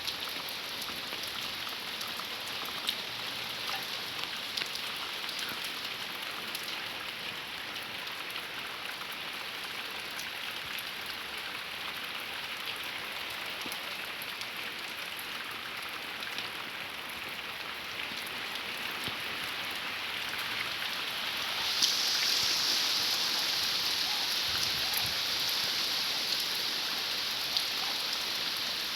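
Heavy rain falling steadily, with scattered drops ticking on a surface; the downpour grows louder and harsher about two-thirds of the way through.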